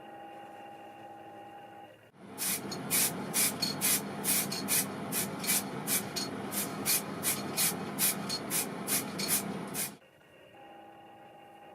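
A spray hissing for about eight seconds, with sharp regular pulses about three times a second. It starts about two seconds in and cuts off near the end.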